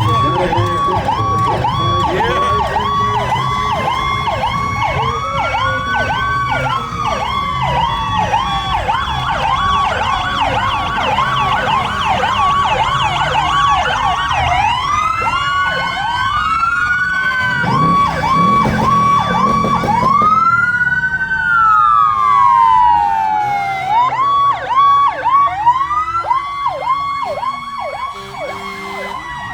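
Several fire truck sirens sounding together: fast electronic yelps overlapping slower wails. About twenty seconds in, one siren winds up and then slowly falls away. A low engine rumble runs beneath.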